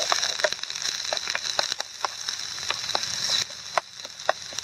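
Chopped onions frying in oil in a camping frying pan: a steady sizzling hiss with many small pops and crackles while a wooden spoon stirs them. The hiss drops a little about three and a half seconds in.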